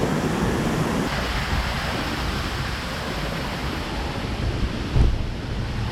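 Steady rush of river water, mixed with wind buffeting the microphone, and a brief low thump about five seconds in.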